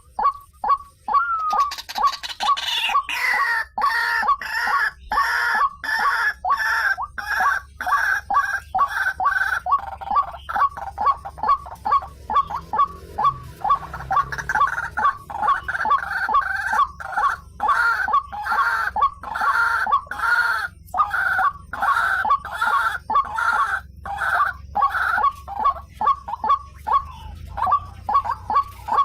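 White-breasted waterhen calling: a rapid, steady run of repeated croaking calls, about three to four a second, with a second overlapping voice through much of it.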